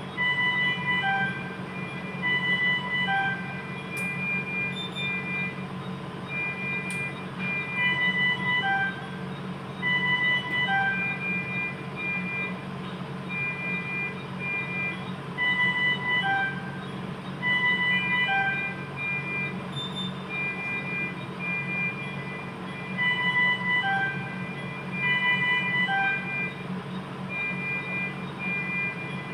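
A simple electronic melody of short, high, pure beeping notes at a few fixed pitches, looping about every eight seconds, over a steady low hum.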